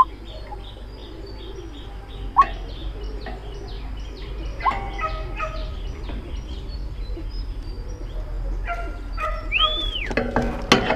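White-breasted waterhen calls played as a trapping lure: many short repeated high notes, with a few louder rising calls, one drawn-out arching whistle near the end, and a burst of loud sharp notes just before it finishes.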